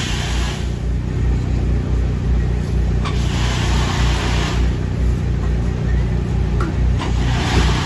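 A steady low engine drone, with bursts of hissing noise that come and go about every three to four seconds.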